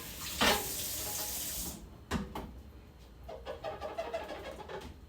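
Kitchen tap running, shut off a little under two seconds in, with a couple of knocks, then a run of brief squeaks.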